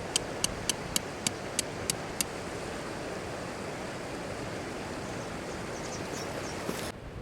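Steady rushing of a river flowing. About eight sharp, high ticks come evenly, roughly three a second, over the first two seconds. The rushing cuts off abruptly near the end.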